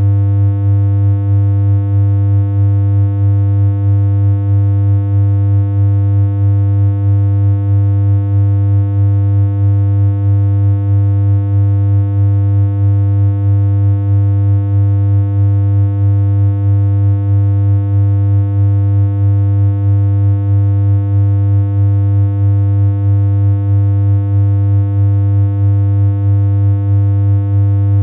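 A synthesized electronic hum: a single low, buzzy tone with many overtones, held perfectly steady with no change in pitch. Its loudness wobbles slightly at a regular rate.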